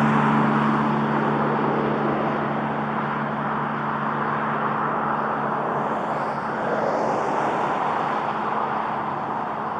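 Boeing 737 jet engines at takeoff power, a steady rushing roar that slowly fades as the airliner climbs away. A low hum in the roar dies out in the first couple of seconds.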